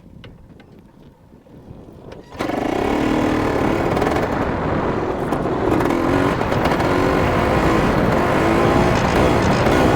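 Dirt bike engine, quiet at first, then suddenly loud about two seconds in as the bike rides off, its pitch rising and falling with the throttle under a rushing noise.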